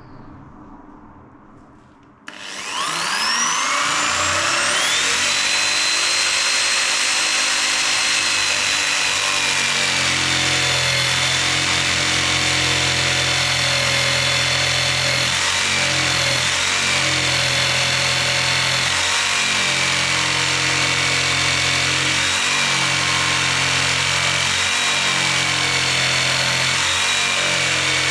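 Electric jigsaw starting up about two seconds in, its motor rising to full speed, then cutting steadily through a thick log. It labours because the log is nearly as thick as the blade is long.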